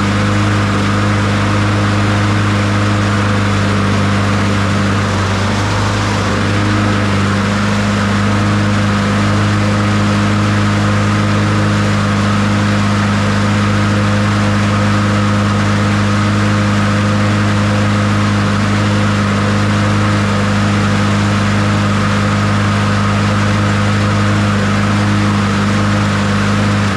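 Honda HRR216 push mower's single-cylinder four-stroke engine running steadily at a constant speed.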